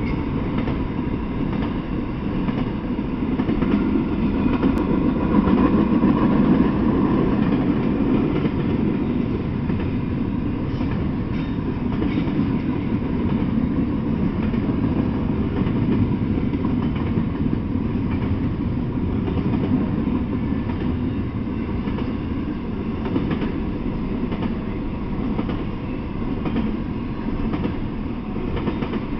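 Intermodal freight train of double-stack containers and trailers on flatcars rolling past, a continuous noise of steel wheels on the rails, a little louder a few seconds in.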